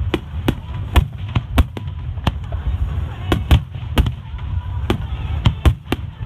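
Aerial firework shells bursting in quick, irregular succession: about a dozen sharp bangs over a steady low rumble.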